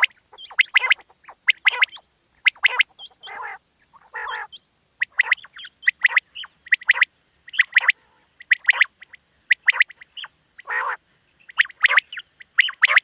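Quail calling: short, sharp notes repeated in quick clusters, broken by a few longer raspy calls.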